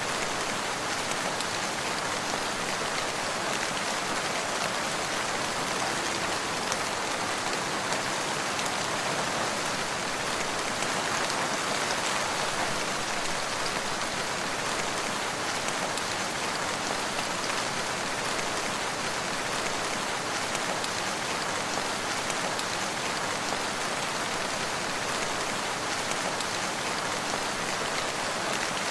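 Steady rain falling, an even patter of drops on surfaces with no thunder or breaks in intensity.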